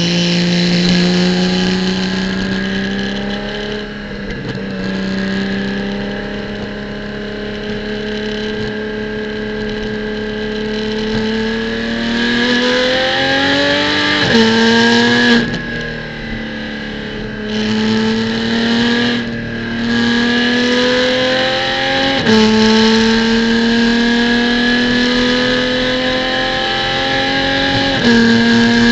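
Porsche Cayman GT4 Clubsport's flat-six racing engine pulling hard through the gears, its pitch climbing steadily and then dropping suddenly at each upshift, several times over. There is a brief lift with a dip in loudness about halfway through.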